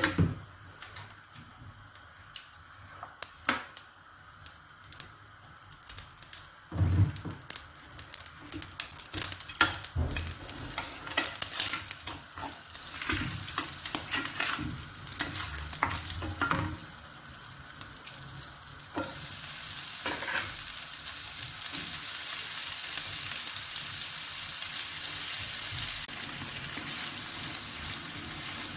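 A wooden spoon knocking and scraping against a steel wok. From about halfway in, a steady sizzle of frying builds as diced vegetables are stir-fried in the hot pan, easing off a little near the end.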